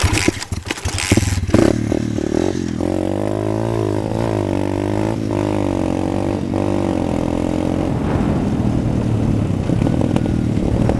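Pit bike engine: about a second and a half of clattering knocks, then the engine runs, its pitch rising and falling as it is revved.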